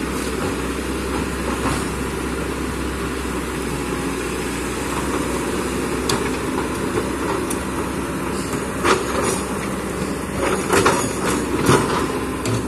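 Kobelco excavator's diesel engine running steadily, with a cluster of sharp knocks from the machine at work in the last few seconds.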